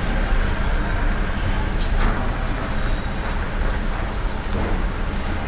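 Steady low rumbling background noise, with a faint click about two seconds in.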